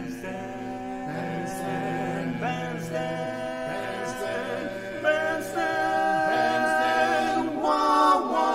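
Barbershop quartet singing a cappella in close harmony, holding sustained chords that change every two or three seconds and grow louder about five seconds in.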